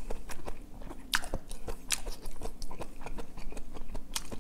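A person chewing a mouthful of braised kimchi and pork, with many short wet clicks and smacks of the mouth.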